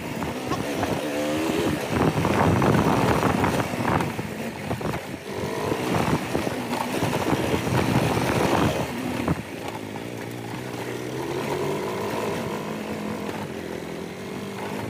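Motorcycle engine running with wind and road noise. About two-thirds of the way through it drops to a quieter, steadier note.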